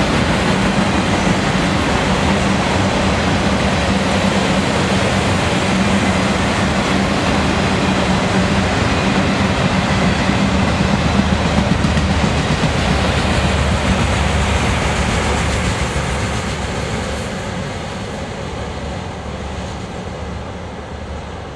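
Freight train of enclosed autorack cars rolling past: a steady rumble and rattle of wheels on rail. It fades in the last few seconds as the end of the train moves away.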